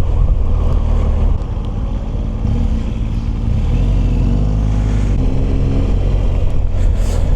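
BMW R1200GS boxer-twin engine running while riding, with a steady wind rumble on the microphone and the engine note shifting around the middle.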